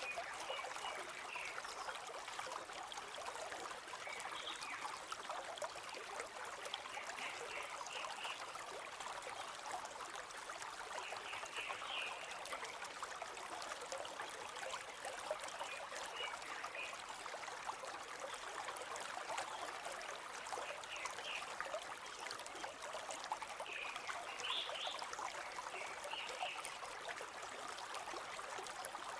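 River water flowing steadily, with short clusters of high bird chirps every few seconds.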